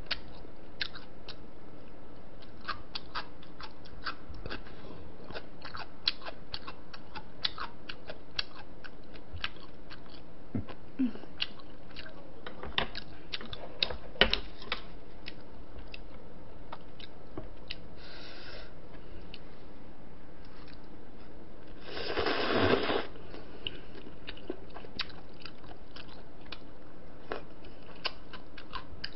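Close-miked eating: chewing and biting with many small sharp mouth and utensil clicks. About three-quarters of the way through comes a louder, noisier burst lasting about a second.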